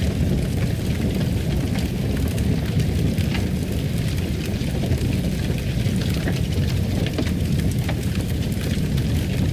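Fire burning in a fireplace: a steady low rumble with many small crackles and pops scattered throughout.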